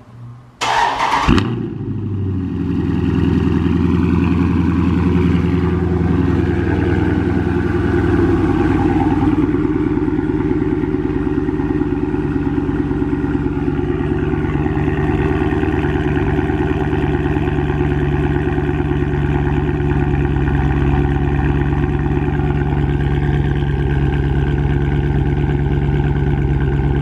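Dodge Charger's 392 Hemi V8 cranked by the starter for under a second, catching with a loud flare. It then settles into a steady, rumbling idle through its exhaust.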